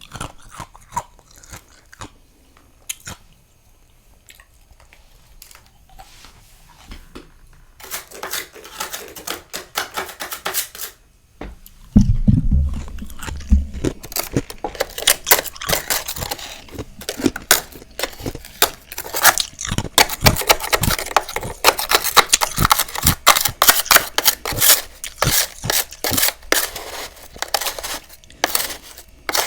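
Freezer frost crunching as it is eaten. There are scattered crackles at first and a dense crackle from about eight seconds in. About twelve seconds in comes a heavy bite, then steady crunchy chewing to the end.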